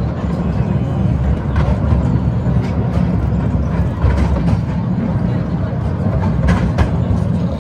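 Toy passenger train running, heard from on board: a steady low rumble with a few sharp clicks.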